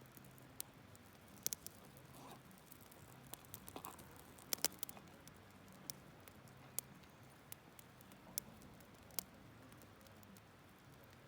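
Wood campfire crackling, with a dozen or so irregular sharp pops and snaps; the loudest few come close together about four and a half seconds in.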